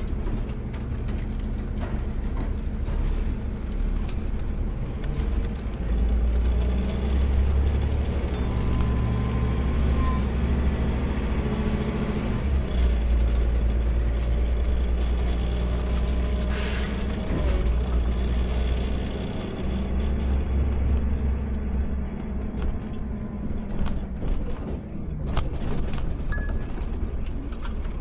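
Automated side-load garbage truck's engine running, growing louder for long stretches as it works, with a short air hiss about two-thirds of the way through.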